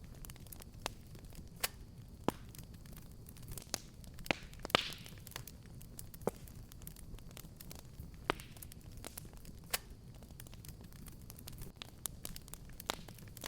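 Wood fire burning with a low steady rumble and irregular sharp crackles and pops, with a brief hissing flare about five seconds in.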